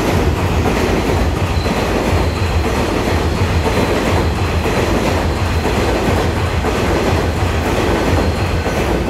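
A twelve-car EMU3000 electric multiple unit running past at close range: a steady, loud rumble of wheels on rail with a rhythmic clatter and a faint steady high whine.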